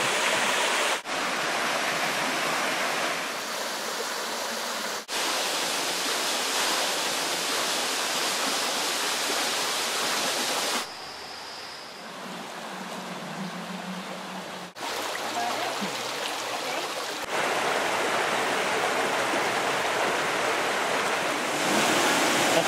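Rushing water of rainforest waterfalls and streams, a steady even rush that changes level at several abrupt cuts and drops quieter for about four seconds midway.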